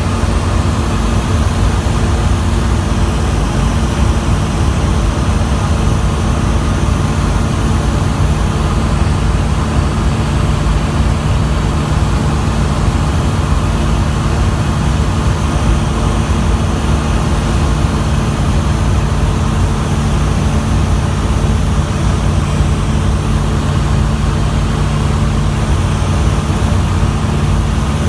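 Zodiac 601 light aircraft's piston engine and propeller running in steady flight: a constant, unchanging drone.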